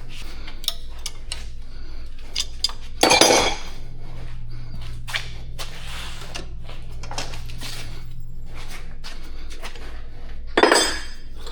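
Metal lathe running with a steady low hum while cutting a steel part's bore, with frequent light metallic clicks and clinks. There are two louder scraping bursts, about three seconds in and near the end.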